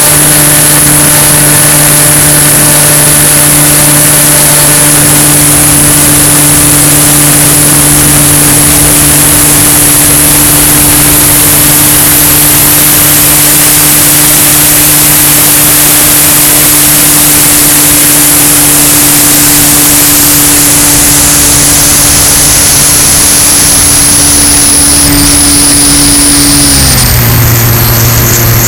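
Cessna 170 light aircraft in flight, its propeller engine running loud and steady over a constant rush of air noise. Near the end the engine note drops to a lower pitch as power comes back.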